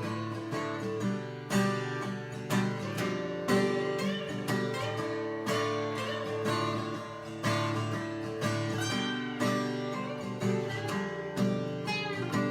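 Acoustic guitar in drop D tuning playing an instrumental passage between sung lines, with chords struck in a steady rhythm of about one strong strum a second over ringing low notes.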